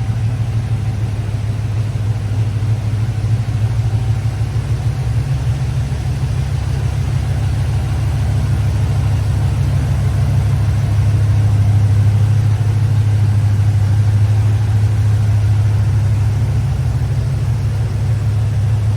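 1984 Chevy K5 Blazer's engine running steadily as a deep, even drone, a little louder for several seconds in the middle.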